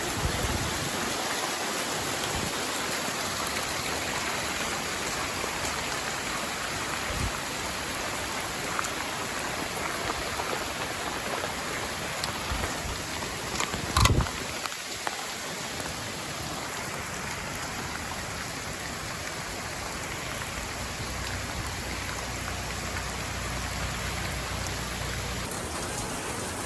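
Heavy rain falling steadily, an even hiss of rain on surfaces. A single knock sounds about halfway through.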